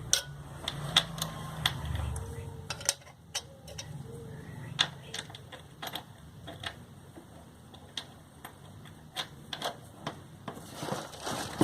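Irregular sharp clicks and knocks of metal tools and parts being handled on a sewing machine under repair, with a low hum during the first three seconds.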